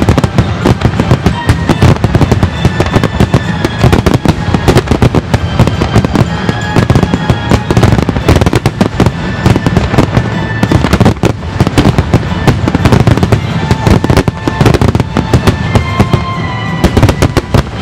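Aerial firework shells bursting in a dense, continuous barrage: rapid overlapping bangs and crackles, many per second.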